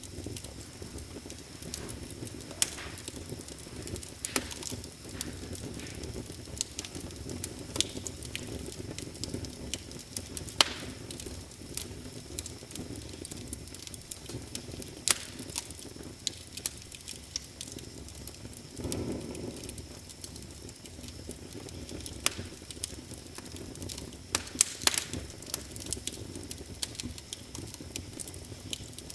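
Wood fire crackling in a fireplace: frequent sharp pops and snaps over a steady low rumble of flame, with a brief swell of the rumble about 19 seconds in.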